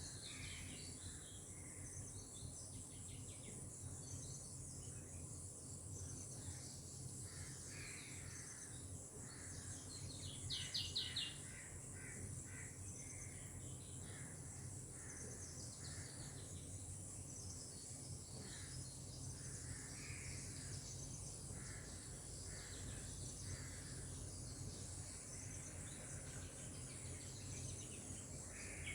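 Tropical outdoor ambience: a steady, high insect trill from crickets or similar insects, with scattered bird calls over it. About ten seconds in there is a quick run of high chirps, the loudest moment.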